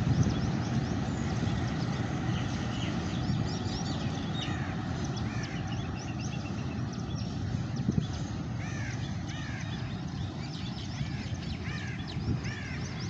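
Low, steady rumble of a diesel freight train moving away into the distance, with birds calling over it in many short, arched chirps that grow busier in the second half.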